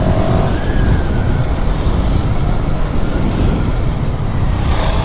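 Motorcycle riding along a road, with the engine and a steady rush of wind over the microphone.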